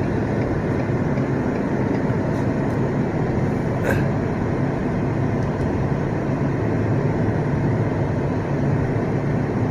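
Steady engine and road noise from inside a 2015 Ford Police Interceptor Sedan cruising, its twin-turbo 3.5-litre EcoBoost V6 at a steady pace, with a brief click about four seconds in.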